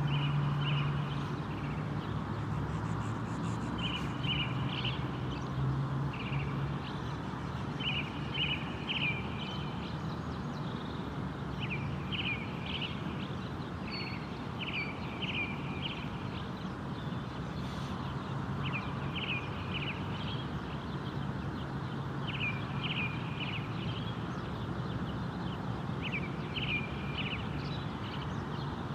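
A songbird repeating a short phrase of two or three quick notes every few seconds, over a steady low hum of background noise.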